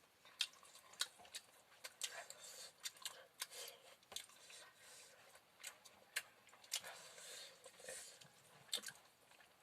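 Faint eating sounds: chewing and mouth noises with irregular sharp clicks.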